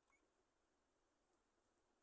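Near silence: faint room tone, with one faint click near the start.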